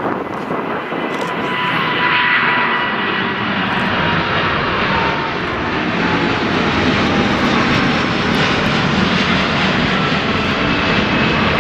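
Jet airliner engines passing close by: a loud rushing noise that builds about two seconds in and then holds, with a thin engine whine that slowly falls in pitch.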